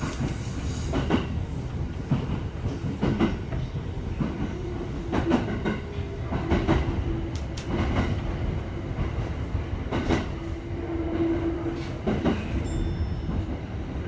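E231-1000 series electric commuter train running slowly into its terminal station, heard from inside the car: wheels clacking over rail joints and points at uneven intervals over a steady rumble, with a steady hum from about five to eleven seconds in.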